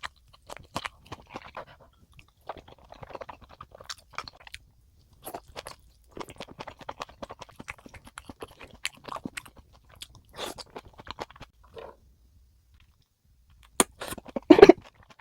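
Close-miked chewing and crunching of food, with many small irregular crackles and wet clicks. There is a short pause near the end, then a few louder crunches.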